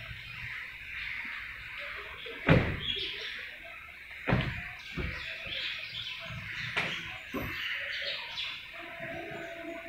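Birds chirping steadily, with several sharp knocks or thumps, the loudest about two and a half seconds in.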